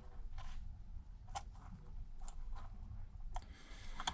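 A few light, scattered clicks and taps from small parts and tools being handled during iPad repair work, over a steady low hum.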